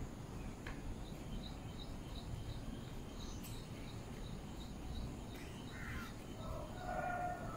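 Faint background of bird calls over low room noise: a regular run of short high pips, about three a second, through the middle, and a longer pitched call near the end.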